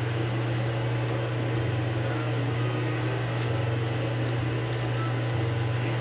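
A steady low hum with faint even background noise and no distinct events.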